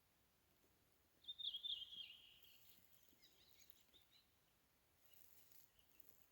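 A single bird call, a short high trill about a second in lasting around a second, followed by a few faint chirps over an otherwise near-silent background.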